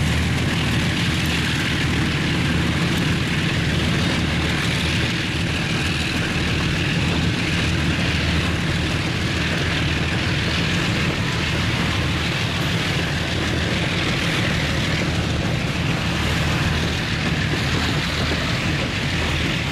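Freight train's boxcars and grain hopper cars rolling past at close range: a steady rumble of steel wheels on rail, over a low steady drone from the diesel locomotive that leads the train.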